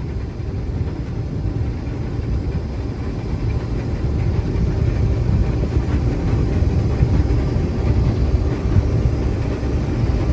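Combine harvester running while harvesting wheat: a steady, loud low rumble that grows gradually louder.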